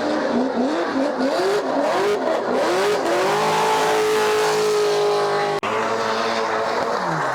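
Drift car engine revving hard, its pitch swooping up and down several times in quick succession, then held steady at high revs. There is a sudden brief break about five and a half seconds in, and the revs drop near the end.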